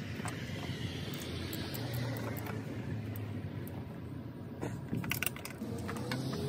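Steady vehicle or engine hum, with a quick cluster of sharp metallic clicks about five seconds in.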